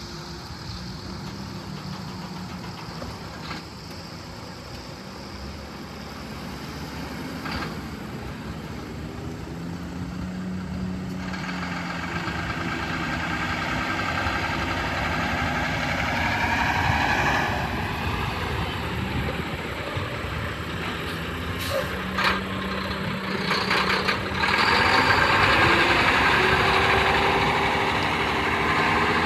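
Mack MP7 straight-six diesel engine of a Mack Granite truck running and getting steadily louder, its engine speed rising twice, about halfway through and again near the end. A few sharp clicks come about three-quarters of the way in.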